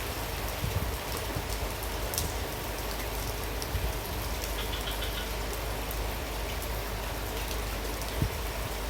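Heavy rain pouring steadily, with scattered louder drops striking a surface, one of them sharper about eight seconds in. Under it runs a constant low rumble of strong wind.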